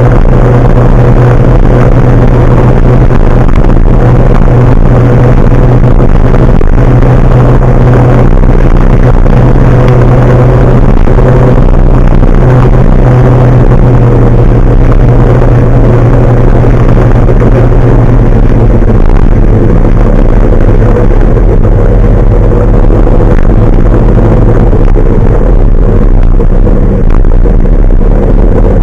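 Large truck's engine running steadily while under way, with a strong low hum; its pitch settles slightly lower about two-thirds of the way through. The recording is overloaded.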